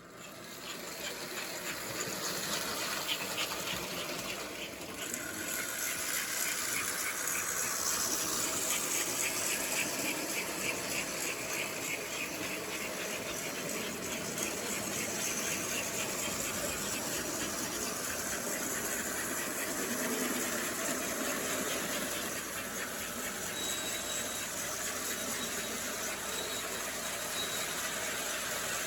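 Model train running: a steady whir from its electric motor and wheels, with fast, even clicking over the track.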